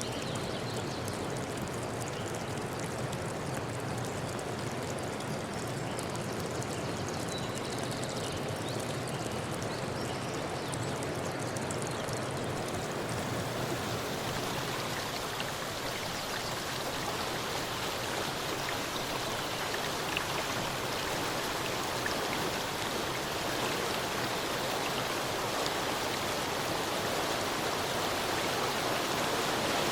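Stream water flowing in a steady rush. About a dozen seconds in, the sound grows brighter and hissier.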